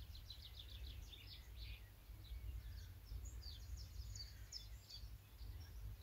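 Songbirds singing in quick chirps and short trills over a faint, steady low rumble.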